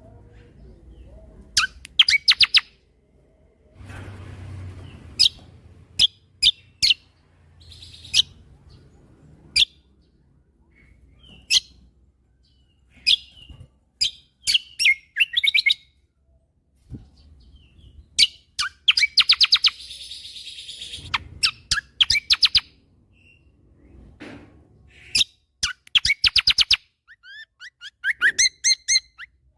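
Kecial kombo songbird singing in loud bursts: sharp, high chip notes and fast rattling trills, the longest runs near twenty seconds in and again around twenty-six seconds, with quick down-slurred whistles near the end.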